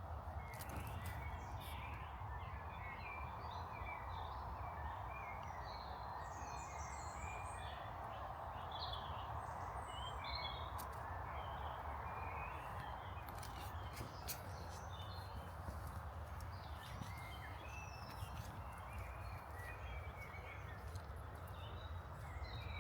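Small songbirds chirping and singing, many short high calls throughout, over a steady outdoor background hum.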